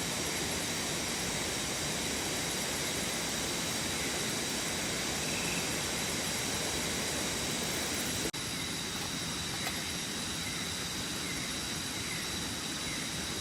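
Steady rushing noise of a waterfall. About eight seconds in it drops out for an instant and comes back slightly quieter.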